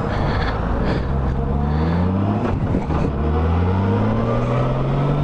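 Honda Goldwing's flat-six engine accelerating, its pitch rising steadily for several seconds, with wind noise on the helmet microphone.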